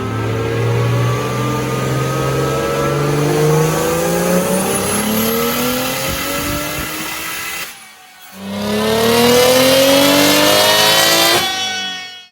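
BMW 135i's single-turbo N54 inline-six accelerating hard, its pitch climbing steadily. About eight seconds in it breaks off briefly for an upshift, comes back lower and climbs again before dying away near the end.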